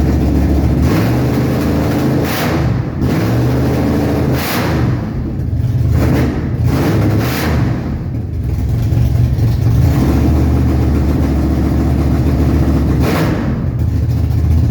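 Chevrolet 454 big-block V8 running, blipped several times so its pitch rises and falls over the first eight seconds, then holding steady.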